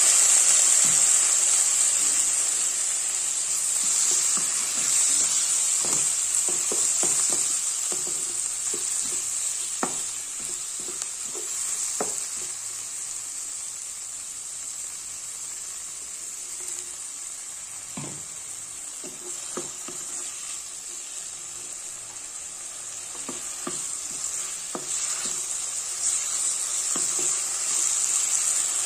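Onion flower stalks, sliced onion and ground spices sizzling in hot mustard oil just after a splash of water has been added so the spices don't burn; the sizzle is loudest at the start, dies down through the middle and rises again near the end. A utensil scrapes and knocks against the pan now and then as the mixture is stirred.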